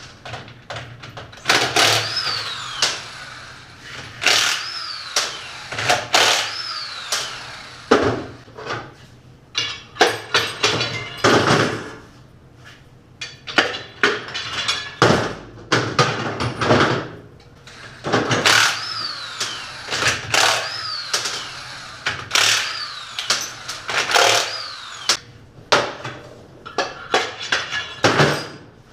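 Metal tools and engine parts of a 350 small-block Chevy clanking and knocking irregularly during teardown, with a few brief high squeals that drop in pitch.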